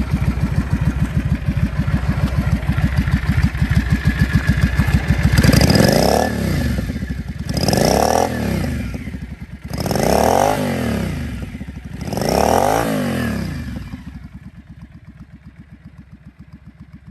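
Yamaha Drag Star 400's air-cooled V-twin running through slash-cut mufflers: a lumpy idle, then four throttle blips, each rising and falling in pitch, about two and a half seconds apart. It drops back to a quieter, steady idle near the end.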